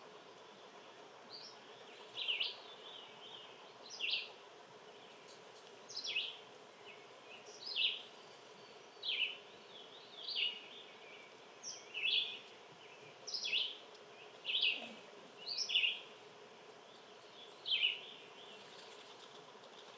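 A bird calling over and over, short sharp chirps that slide downward in pitch, about one every second or two, over a steady low background hum.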